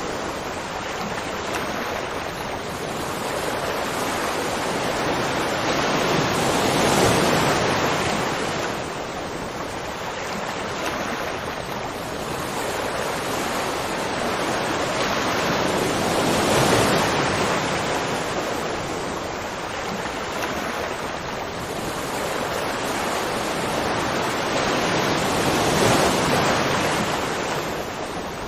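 Rushing water: a dense, steady hiss of falling or breaking water that swells louder and eases back about every nine to ten seconds.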